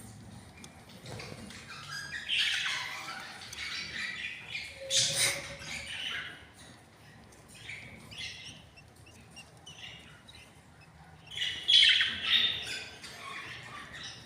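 Budgies in a nest squawking in irregular raspy bursts, loudest about two to three seconds in, around five seconds in, and again near the end.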